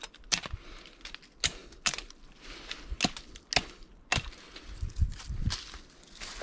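Dry wood cracking and snapping in a series of sharp, irregular cracks, about ten in all, with a faint hiss between them.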